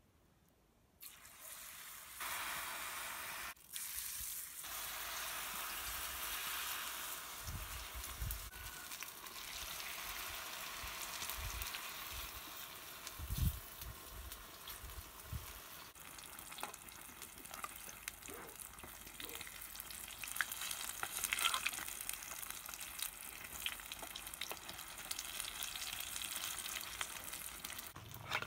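Wheat-flour fritter batter frying in hot vegetable oil in a pan: a sizzle starts suddenly about a second in and goes on as steady, dense frying, with a few low knocks and clicks from the metal spatula and pan.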